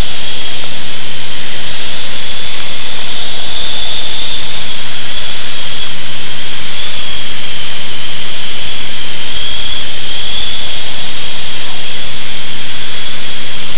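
Cabin noise of a Cessna 185 Skywagon in flight: a steady, loud engine and propeller drone with rushing air, and a steady high whine running through it.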